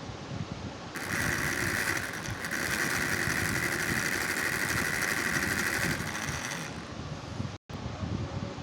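Small DC hobby motors of a homemade mini fan running with a steady high whine and whirr, which starts about a second in and falls away near the end.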